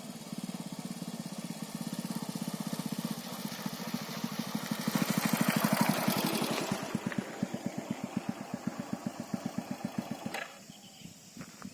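A small engine running with an even, rapid putt-putt beat. It grows louder to a peak about six seconds in, then fades as the beat slows, as a vehicle passing by would. It drops away sharply near the end.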